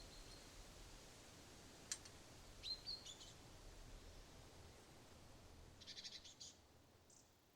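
Wild birds calling in a forest: a few short, high chirps and, about six seconds in, a quick rapid trill, over a faint steady background hiss. A single sharp click sounds just before two seconds.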